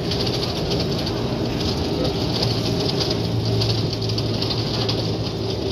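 Electric rack railway train of the Schynige Platte Bahn running along the track: a steady low hum with a fast, even rattle from the running gear.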